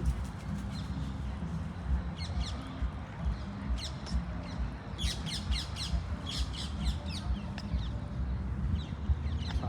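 Birds chirping: quick runs of short, high, falling chirps in several clusters, over a steady low outdoor rumble.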